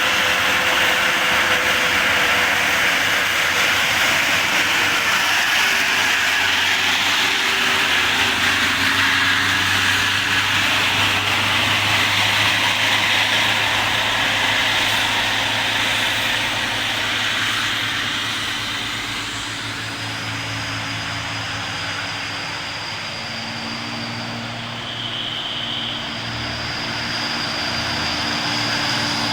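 Trucks driving past on a road: engine and tyre noise, loud and steady, easing off for a while after about eighteen seconds and building again near the end.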